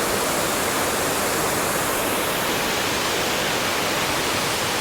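Waterfall in spate: a steady, full rush of water falling and pouring over rocks, close by.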